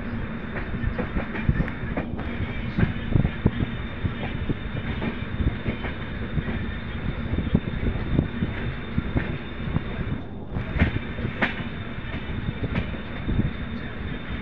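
Passenger train running at speed, heard from the coach doorway: a steady rumble and rush of air with irregular clacks of the wheels over rail joints and points.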